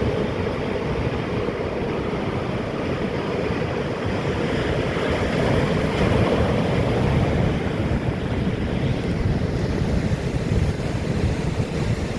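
Atlantic sea waves breaking on rocks: a continuous surf wash that swells louder about halfway through, with wind rumbling on the microphone.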